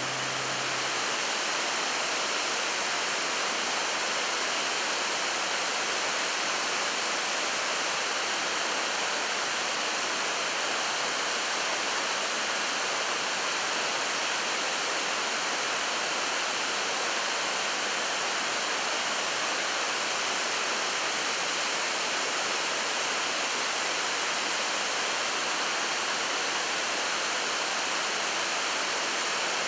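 Steady, unbroken rush of falling water from a waterfall, even in level throughout.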